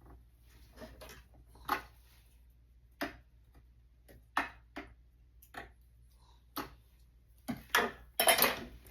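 Sewing machine taken through stitches slowly, giving single sharp mechanical clicks at uneven intervals that come faster and closer together near the end.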